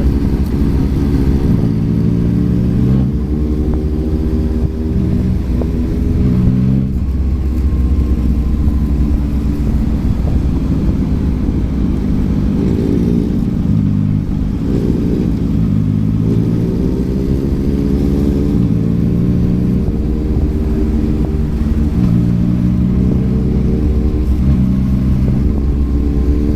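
Yamaha MT-09's 890 cc inline-three engine running through a Yoshimura R11 exhaust under way. The note climbs and then drops suddenly several times as the bike accelerates and changes gear.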